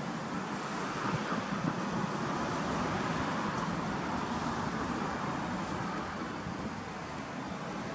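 Suzuki Kei Works' K6A turbo three-cylinder engine idling with a steady hum.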